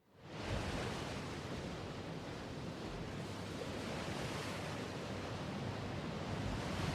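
Recorded ocean surf: a steady wash of waves that fades in quickly at the start and holds at an even level, with no music yet.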